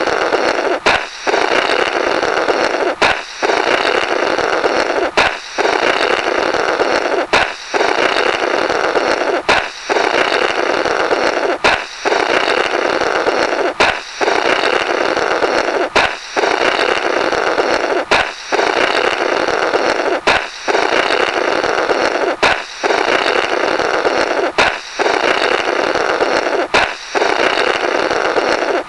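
Comedy 'Blorrrt' balloon sound effect: a sharp balloon pop followed by a long raspy, flapping blow through the burst rubber. It is looped, repeating about every two seconds, about thirteen times.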